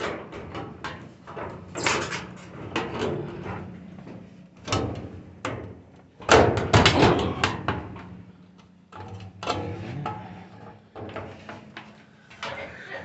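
Clunks, knocks and scraping of a dryer's sheet-metal front panel being worked loose and lifted off the cabinet. The loudest cluster of knocks comes about six to seven seconds in.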